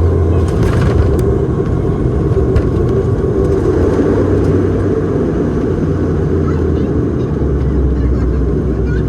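Bombardier Dash 8-Q400's turboprop engines and propellers running steadily, heard inside the passenger cabin as a loud low drone. The drone drops slightly in pitch about seven seconds in.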